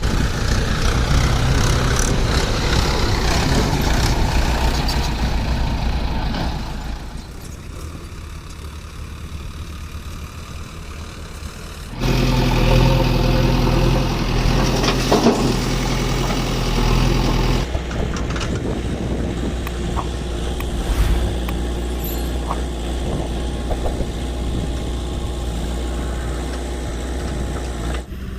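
Diesel engines of a backhoe loader and farm tractor running steadily, the sound changing abruptly about 12 and 18 seconds in.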